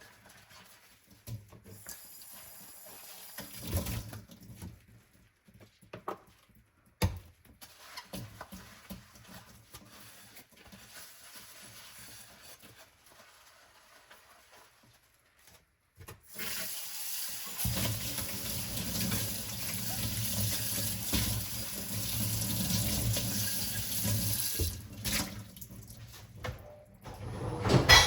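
Hand-washing dishes at a kitchen sink: a few scattered knocks of dishes being handled, then, about sixteen seconds in, the tap is turned on and water runs steadily into the sink for about nine seconds before it stops. A sharp knock right at the end.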